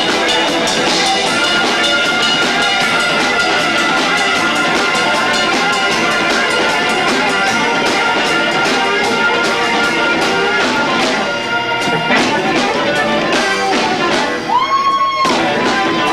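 Live rock band playing loud music with two drum kits, recorded with heavy distortion on a 1990s camcorder's built-in microphone. Sustained notes run over steady drum hits, and a single held note bends near the end.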